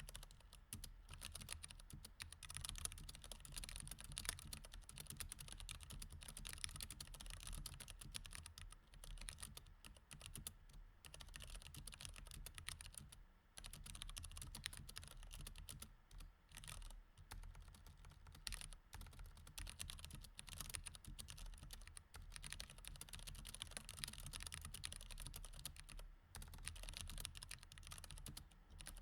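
Steady, fast typing on a mechanical keyboard with Cherry MX Red switches, a dense run of keystroke clicks broken by a few brief pauses.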